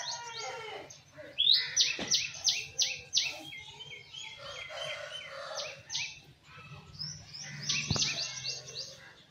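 Aseel chicks peeping: runs of short, high, falling chirps, several a second, with brief pauses between runs.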